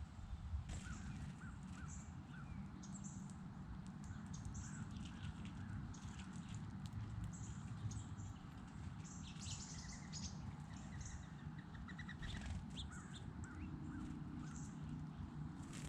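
Wild birds chirping, many short high calls scattered irregularly, over a steady low rumble.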